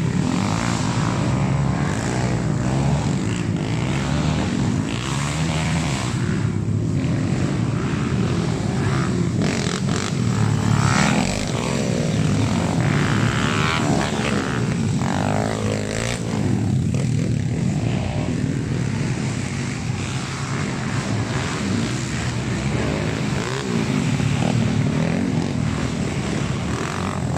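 Honda XRM underbone motorcycles' small single-cylinder engines revving hard while racing, the pitch rising and falling over and over with throttle and gear changes.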